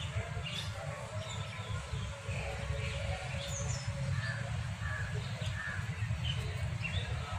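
Scattered short bird calls and chirps over a steady low rumble.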